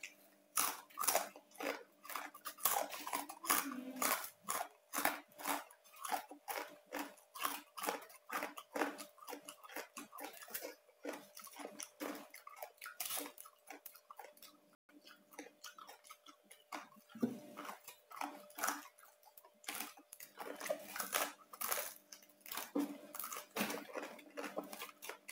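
Close-up chewing of crispy-skinned roast pork: irregular crunching and crackling bites, a few a second, with wet mouth sounds.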